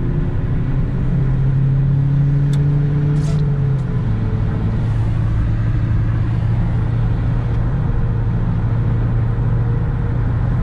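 Mitsubishi Lancer's 1.6-litre 4G18 four-cylinder engine running steadily under way, heard from inside the car over constant road and tyre noise. The engine note drops slightly about four seconds in. There is a short click and a brief rustle around the middle.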